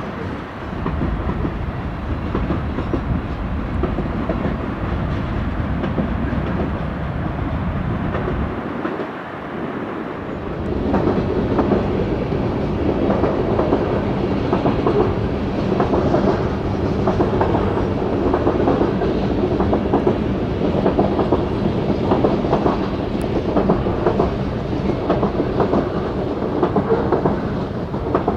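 Freight cars rolling past on the rails, a steady rumble of wheels on track. About ten seconds in it gets louder, with a rapid run of sharp wheel clicks.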